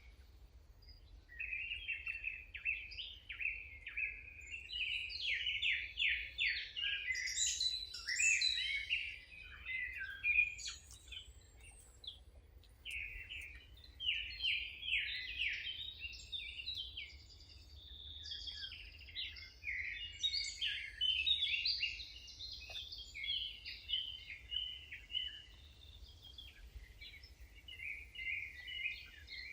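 Songbirds singing: phrase after phrase of quick chirps and trills, with short pauses between, over a faint steady low hum.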